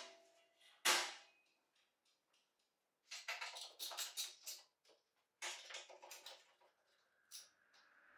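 Two sharp clanks that ring briefly, then two spells of quick clattering and rattling, like hard parts being handled, and a single click near the end.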